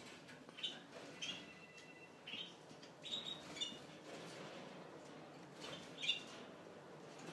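Small birds chirping in the background: a few clusters of short, high chirps over a faint steady room hum.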